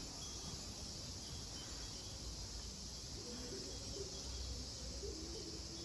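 Cicadas chorusing: a steady, unbroken high-pitched drone, over a low rumble.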